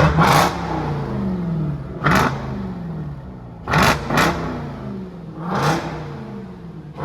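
Jeep Grand Cherokee Trackhawk's supercharged 6.2-litre V8, exhaust with the mid mufflers deleted, revved in sharp blips about every two seconds, one of them a quick double, each rev falling straight back to idle.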